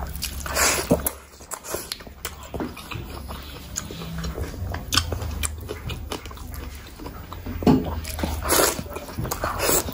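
Close-miked biting and chewing of a mouthful of fresh leafy greens: irregular crunching clicks and wet mouth sounds, with a louder bite about a second in and another near eight seconds.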